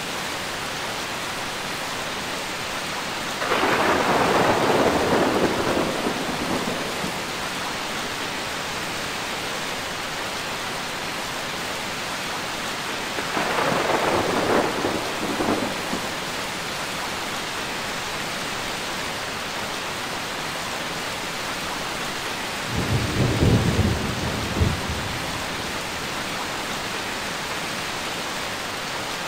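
Steady rain with three rolls of thunder: one about three and a half seconds in lasting a few seconds, a second around thirteen seconds, and a deeper, lower rumble around twenty-three seconds.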